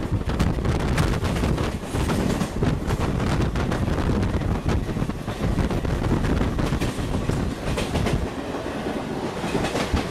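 Passenger train running at speed, heard from aboard: a steady low rumble with the wheels clattering over rail joints in quick, uneven clicks. A second train runs close alongside on the next track.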